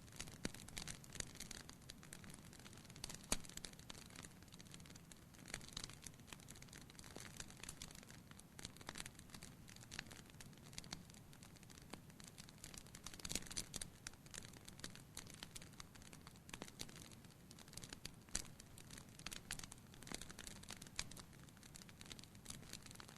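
Wood fire in a fireplace crackling, with irregular small pops and snaps over a soft low rumble.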